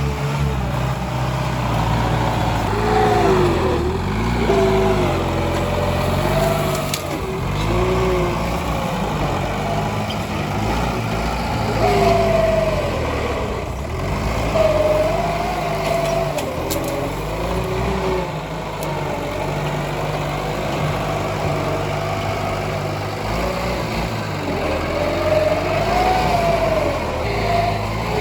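Tractor engine running under load while clearing brush, its speed shifting up and down, with a whine that rises and falls in pitch over it.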